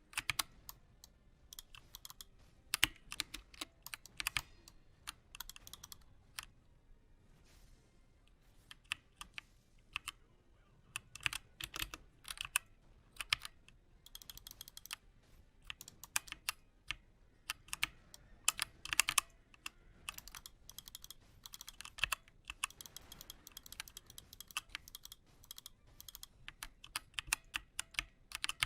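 Typing on a Redragon Draconic K530 mini mechanical keyboard: irregular key clicks in quick runs, with short pauses between them.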